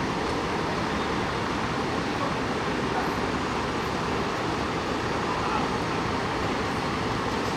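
Steady city street traffic noise, an even rumble and hiss of passing vehicles, with no siren sounding.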